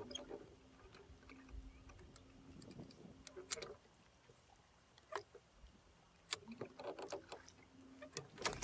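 Scattered small clicks and knocks from gear being handled in a small boat, over a faint low hum that comes and goes.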